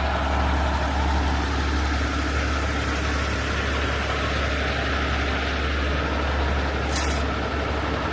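Heavy diesel truck engine idling steadily, typical of a rotator tow truck running while holding a load in the air, with a short air hiss about seven seconds in.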